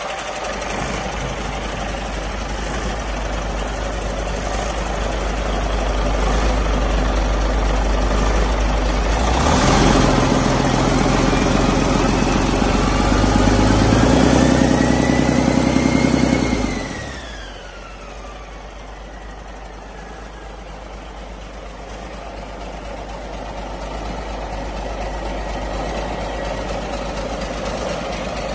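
Detroit DD15 14.8-litre inline-six diesel engine running on a test run. About a third of the way in it is revved up, with a whine gliding upward; a little past halfway the throttle is released and it drops back sharply to idle as the whine falls away.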